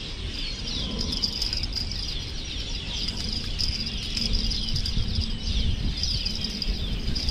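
Wild birds chirping in a dense chorus of quick, falling high notes, over a continuous low rumble.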